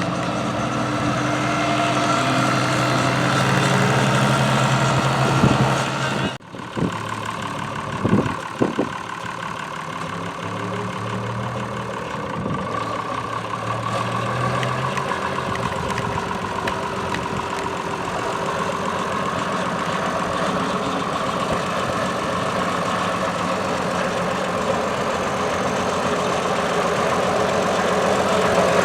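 A large tractor engine running steadily at idle. It briefly drops out about six seconds in, then carries on.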